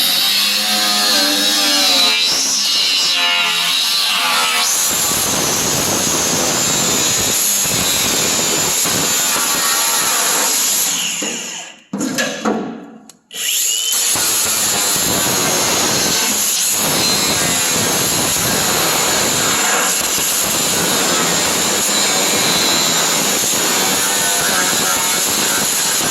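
A power tool cutting, running steadily; it stops for a moment about twelve seconds in and then starts again.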